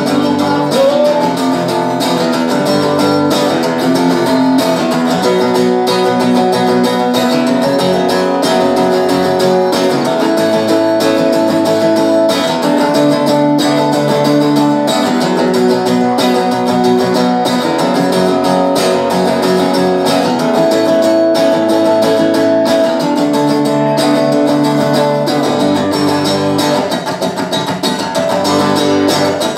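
Live indie rock music: strummed guitars with bass in an instrumental passage without singing, loud and continuous.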